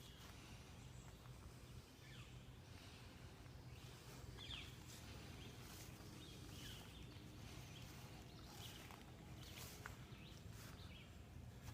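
Near silence: faint outdoor ambience with a low steady hum and a few faint bird chirps.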